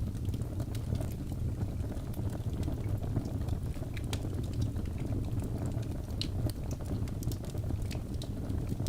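Birch logs burning in a fireplace: a steady low rush of the flames with frequent sharp crackles and pops.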